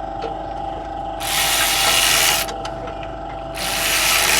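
Ratchet wrench being worked in two bursts of rapid clicking, the first about a second in and lasting just over a second, the second near the end and shorter, over a steady background hum.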